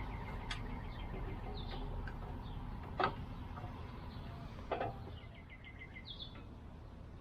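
Birds chirping, with a quick run of short notes about five seconds in. Two sharp knocks come about three and five seconds in, and a low rumble fades away during the first five seconds.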